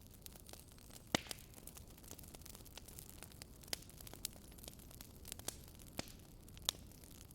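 Wood fire crackling in a fireplace: irregular sharp pops and snaps, the loudest about a second in and again near the end, over a low steady rumble.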